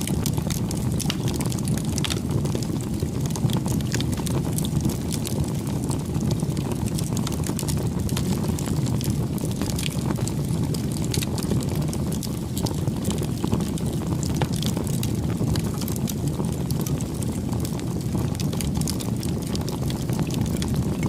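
Bonfire burning: a steady low rumble of flames with frequent sharp crackles and pops of burning wood.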